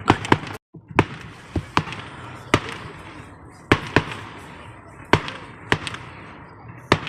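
Fireworks going off: a string of sharp bangs at uneven gaps of about half a second to a second, each trailing off in a short echo. The sound drops out for a moment about half a second in.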